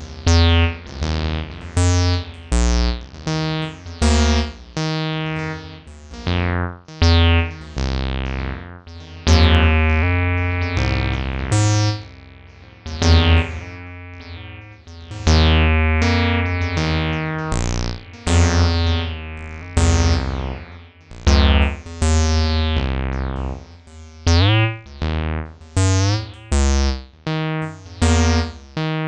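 Acid synth line in the TB-303 style: a run of pitched bass notes of uneven length, each with a resonant filter that opens bright and sweeps down. There are a few pitch slides between notes about 24 to 26 seconds in.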